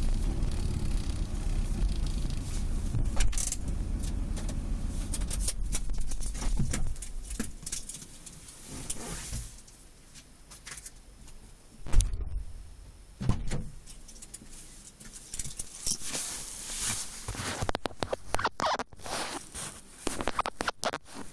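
Inside a Subaru Legacy BH5 wagon's cabin: steady road rumble with light crackling clicks from the stripped rear hatch and luggage area, the unexplained crackling noise. The rumble fades away about seven seconds in as the car slows, leaving scattered clicks, a single sharp knock about twelve seconds in, and busier clicking and rustling near the end.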